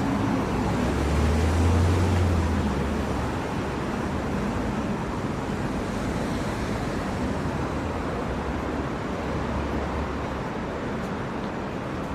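Outdoor city ambience: a steady wash of traffic noise, with a low engine rumble from a passing vehicle swelling about a second in and again later on.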